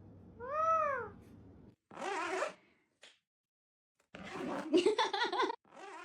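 A pet parrot gives a short rising-and-falling meow-like call, then a couple of harsh, raspy bursts of squawking chatter, the loudest a little after the middle.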